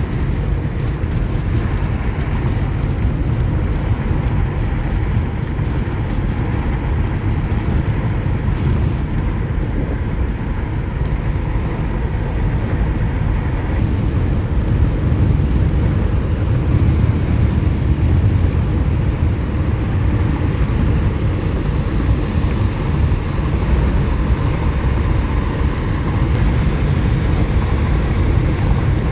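Steady rumble of a car driving along a road, engine and tyre noise, with no sudden sounds.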